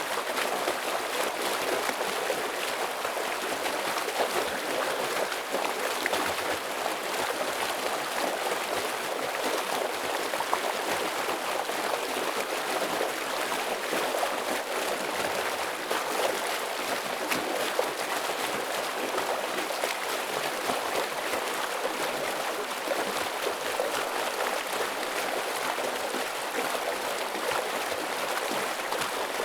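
Forest stream running steadily over rocks, a continuous rush of water with fine splashing and gurgling.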